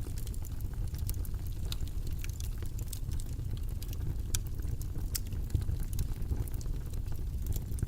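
Steady low rumbling noise, like a brown-noise study track, with many light, irregular clicks and ticks scattered over it.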